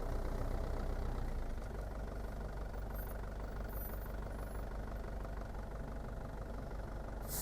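Engine of an Iveco bus-conversion caravan running steadily, with a short hiss near the end.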